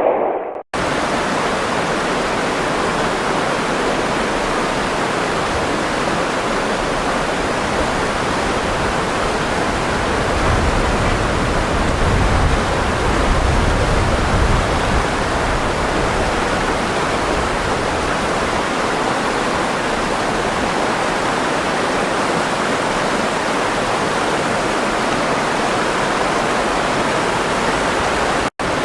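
Running water rushing steadily, with a deeper rumble swelling for a few seconds in the middle. The sound drops out for an instant just under a second in and again just before the end.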